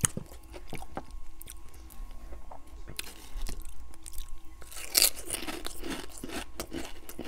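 Close-miked chewing of a mouthful of meatloaf: wet clicks and small crunches, with a louder run of crunching about five seconds in.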